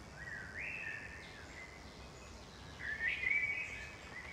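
Bird song: two warbling phrases of gliding notes, one just after the start and another about three seconds in, over a faint steady background hiss.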